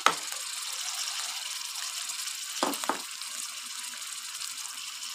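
Chopped tomatoes and green chillies sizzling in hot ghee with fried onions in a pan: a steady hiss, with a sharp knock at the start and two quick knocks a little under three seconds in.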